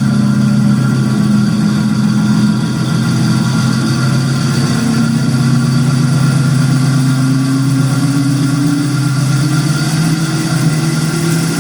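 LokSound digital sound system reproducing a GP-9's EMD diesel prime mover through a single loudspeaker, the throttle being notched up. The engine sound is steady at first, then climbs in pitch over the second half as it revs toward full throttle.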